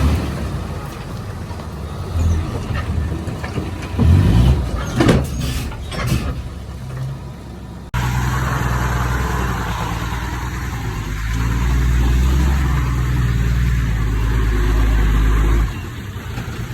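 Heavy diesel engines of earthmoving machines at work, a small Komatsu bulldozer and 5-ton dump trucks. There are a few louder sudden sounds between about four and six seconds in. Halfway through the sound changes abruptly to a steady low engine drone, which drops off shortly before the end.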